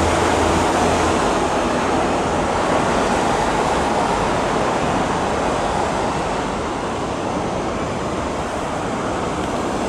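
MTR Kwun Tong Line C-Train running on an elevated track, a steady rushing rail noise that slowly fades as the train pulls away. A low hum drops out about a second in.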